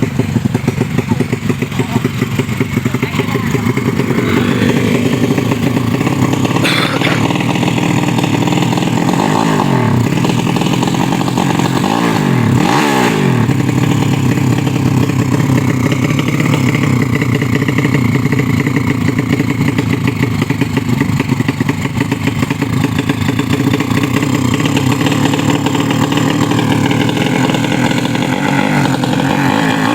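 Motorcycle engine running continuously. Its pitch dips and climbs back a few times, about a third of the way in and again near the end.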